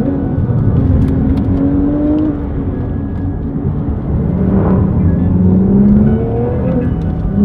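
High-performance sports car engine accelerating hard through the gears: the pitch climbs steadily, then drops at an upshift and climbs again, twice.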